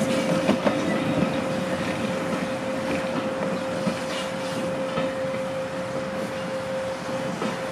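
A train of vintage railway carriages rolling slowly away, its wheels clicking over rail joints in the first second, the rumble fading as it goes. A steady whine sounds under it.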